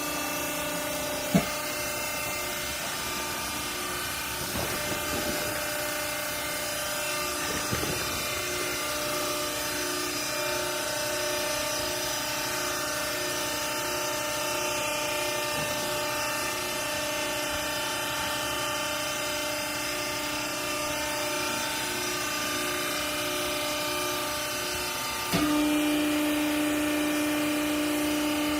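Hydraulic baler's motor and pump running with a steady, tonal whine. There is a sharp click about a second in. About 25 seconds in, the whine suddenly jumps louder, with a stronger single tone.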